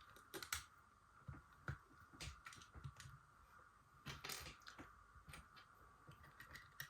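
Faint, scattered clicks and rustles of small plastic parts being handled while a Game Boy Advance is put back together, with a few sharper clicks, over a faint steady background hum.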